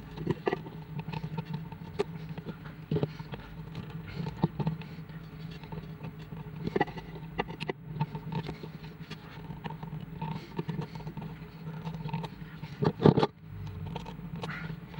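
Irregular small clicks, taps and knocks of parts being handled over a steady low hum, with a louder cluster of knocks near the end.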